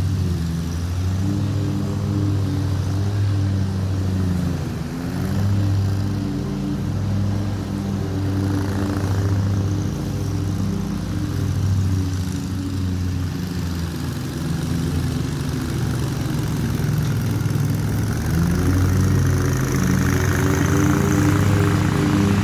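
Lawn mower engine running steadily, its pitch shifting slightly a few times as it works.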